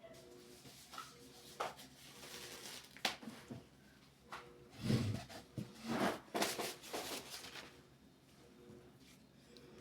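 Scattered clicks, knocks and rustles of things being handled, with a dull thump about five seconds in and a busier patch of knocks shortly after.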